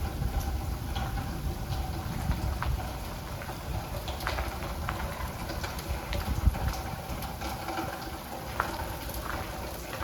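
Sleet falling: a steady patter of many small ticks as ice pellets hit the ground and surfaces, over an uneven low rumble.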